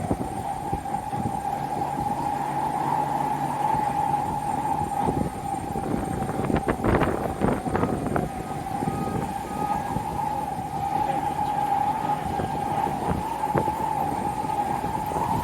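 Strong wind buffeting the microphone in gusts, over a steady high whine that wavers slightly.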